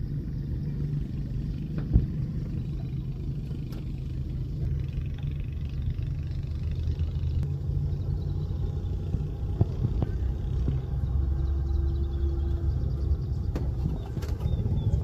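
A motor vehicle's engine running steadily with a low rumble, with a few light knocks.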